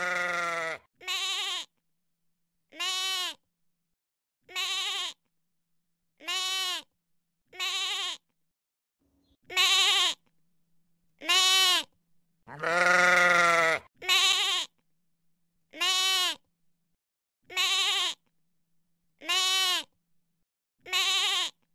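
Sheep bleating over and over, one quavering bleat about every one and a half to two seconds. Two of the bleats are longer and deeper: one at the start and one just past the halfway point.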